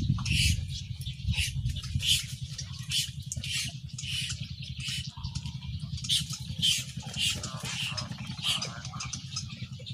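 Birds calling in the trees, short high chirps repeating about twice a second, over a low rumble of wind or handling on the microphone.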